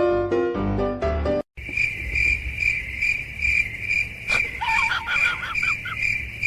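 Keyboard music for about a second, then, after a cut, steady pulsing insect chirping, about two chirps a second, like a cricket. A quick run of short squeaky calls joins in about five seconds in.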